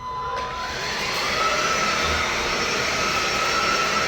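Belife cordless vacuum cleaner switched on: its brushless motor spins up with a rising whine, then runs steadily with a high whine over a loud rush of air.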